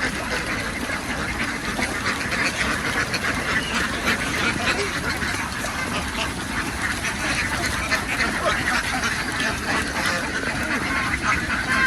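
A flock of domestic ducks quacking, many calls overlapping in a steady, continuous chatter.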